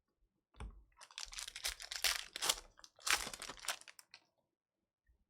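A trading-card pack's plastic wrapper crinkling and tearing as it is ripped open, a dense crackle lasting about three seconds.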